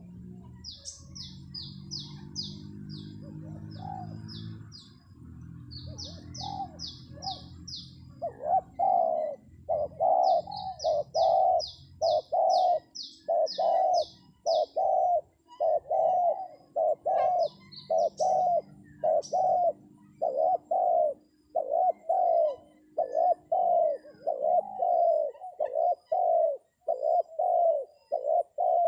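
Spotted dove (terkukur) decoy call: coo notes repeating steadily about once a second, starting about eight seconds in. Short runs of rapid, high chirping from a small bird come in the first half.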